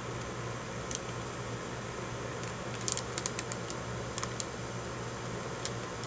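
Small clicks and crinkles of a paper receipt being handled, a few scattered and a short cluster about halfway through, over a steady low room hum.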